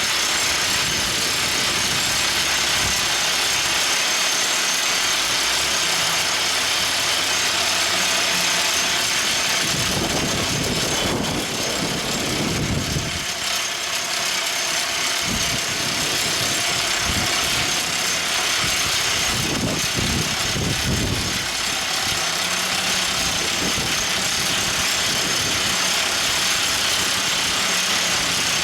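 Everdigm ECD45E top hammer drill rig's engine and machinery running steadily, with two deeper surges of a couple of seconds each, about ten and twenty seconds in.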